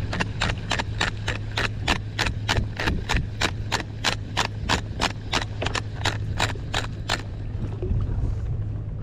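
Rapid, even clicking at about three to four clicks a second, typical of a fishing reel being cranked to retrieve line, stopping about seven seconds in, over a steady low hum.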